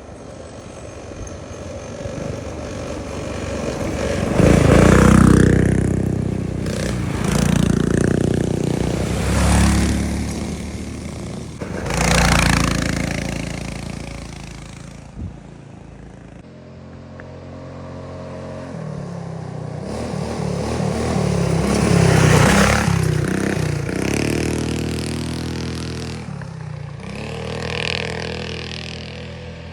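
Small minibike engines running hard as several bikes ride past one after another, each swelling in loudness and shifting in pitch as it passes.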